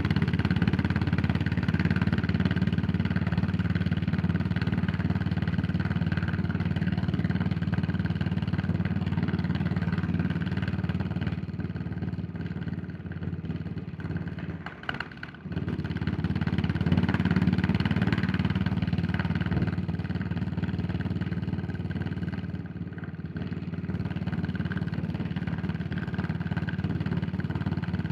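Yamaha SR400's single-cylinder four-stroke engine running as the motorcycle is ridden. The engine sound drops off sharply for a moment just past halfway, then picks up again as it pulls away, with a gentler easing off near the end.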